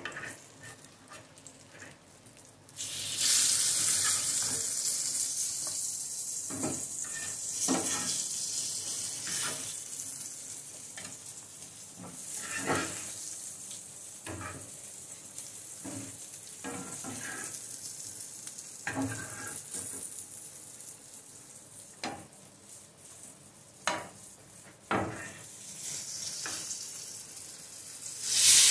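Spiced eggplant slices frying in hot oil in a pan. The sizzle starts suddenly about three seconds in and slowly dies down, with scattered clicks and scrapes of a metal spatula against the pan. Near the end a fresh slice goes into the oil and the sizzle rises loud again.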